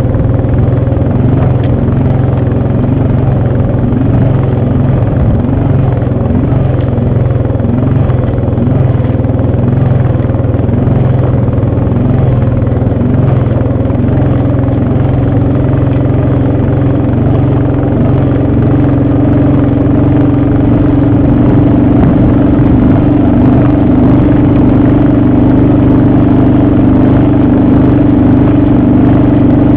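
ATV engine running steadily during a ride, growing a little louder and stronger in tone about two-thirds of the way through.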